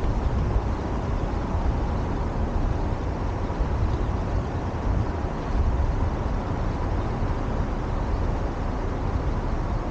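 Steady low rumble of a vehicle's road noise mixed with wind buffeting the microphone while it moves along a city street.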